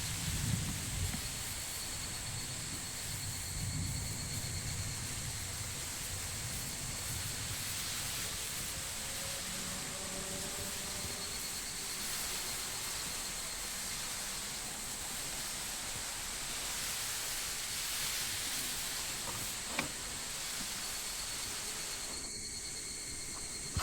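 Summer insects droning steadily as a continuous high-pitched chorus, with a fainter pulsing note beneath it. Some low rumble in the first few seconds and a single sharp click about twenty seconds in.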